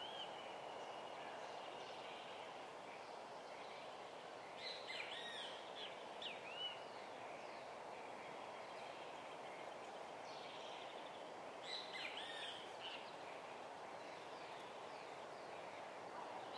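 Wild bird song: a short phrase of quick looping, whistled notes, repeated about every seven seconds, with a faint thin trill between phrases, over a steady rushing background noise.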